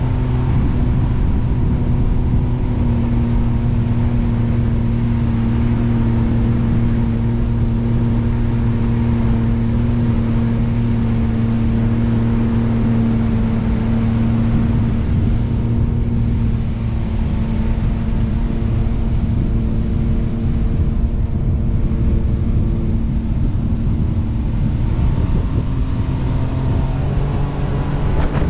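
Jet boat's engine running at a steady cruising speed: a constant hum over a dense low rumble, its tones shifting slightly near the end.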